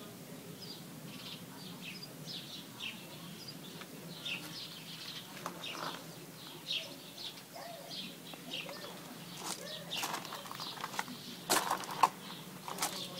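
Small songbirds chirping, short high calls about twice a second. From about ten seconds in, a few sharp clicks and knocks, the loudest sounds here, cut across the birdsong.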